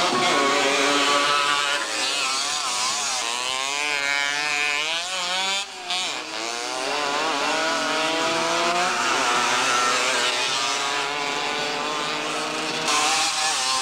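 Several motocross motorcycle engines racing together, their pitches rising and falling as the riders rev and shift.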